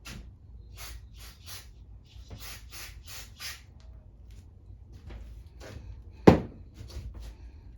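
A series of short, irregular hissy strokes as a Honda lawn-mower carburetor is cleaned with carburetor cleaner and a brush, with one sharp knock about six seconds in.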